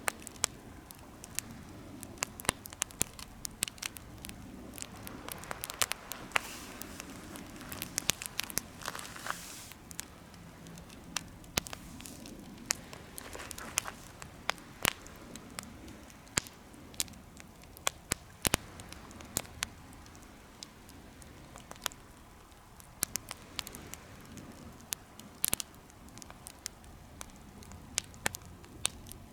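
Wood fire burning in a homemade fire stand, crackling with frequent irregular sharp pops, and a stretch of soft hissing about five to ten seconds in.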